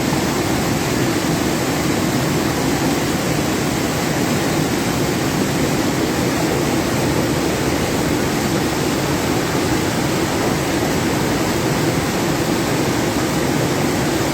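Floodwater from an overflowing river rushing steadily, with a dense, even noise.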